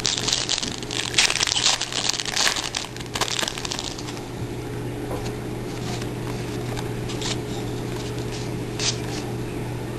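Crinkling of a foil trading-card pack wrapper being handled, loudest for about the first four seconds, then fading to quieter rustling with a few small ticks.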